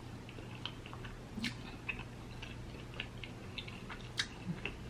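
Close-miked chewing of a mouthful of seafood-boil potato: soft wet clicks and smacks, a little louder about one and a half seconds in and again near four seconds, over a faint low steady hum.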